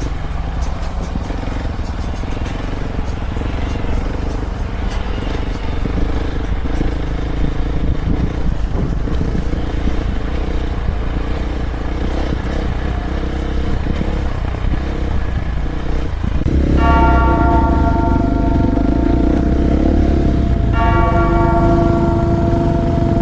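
Dirt bike engine running under way, with rough trail and wind noise. About seventeen seconds in, steady bell-like ringing tones come in over it.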